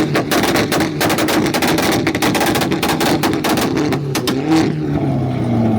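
Car engine held on a two-step launch-control rev limiter, firing a rapid stream of exhaust pops and bangs. About four and a half seconds in, the popping stops and the engine revs fall away.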